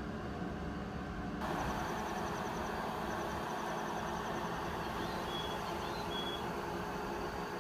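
Steady hum of a train standing idle at a station platform. About a second and a half in, a louder hiss comes in abruptly, and crickets chirp over the hum.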